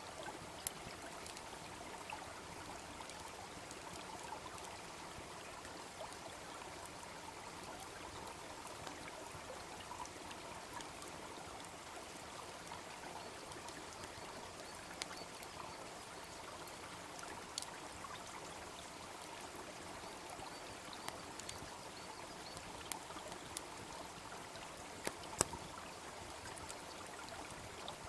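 A babbling brook running steadily, with a wood fire crackling over it in scattered sharp pops, the loudest pop near the end.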